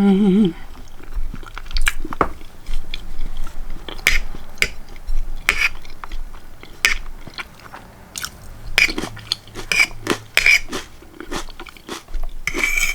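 Close-miked chewing of field peas and snaps, with irregular sharp wet mouth clicks.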